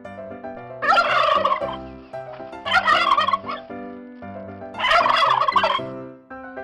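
Turkey gobbling three times, each gobble about a second long, over background keyboard music.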